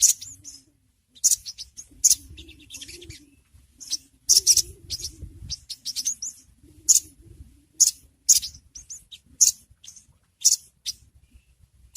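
Ruby-cheeked sunbird (sogon) calling: short, sharp, high chirps repeated in irregular clusters, a few a second, over a faint low rumble.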